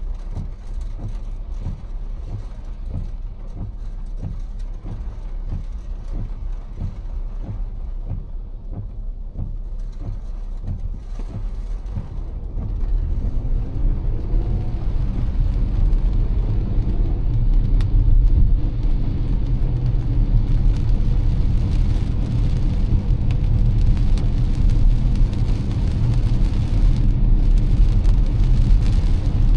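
Car driving through heavy rain: a steady low road and engine rumble with rain noise over it. It grows louder about halfway through, with a faint rising engine tone.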